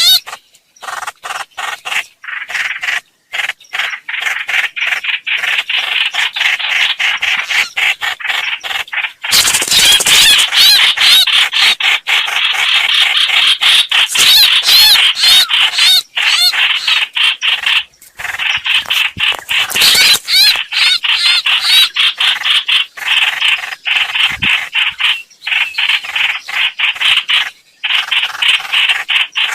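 Hoành hoạch birds calling in a lure recording used to attract birds to a trap: loud, fast chattering notes that run on almost without a break, pausing only briefly now and then.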